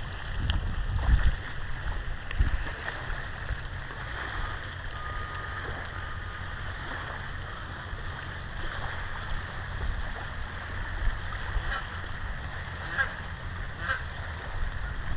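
Wind buffeting the microphone, with birds giving a few short calls, the clearest two near the end.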